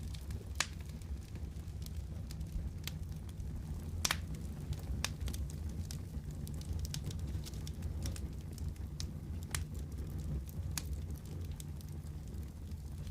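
Fireplace fire crackling: scattered sharp pops at irregular intervals over a steady low rumble, the loudest pops about half a second, four seconds and nine and a half seconds in.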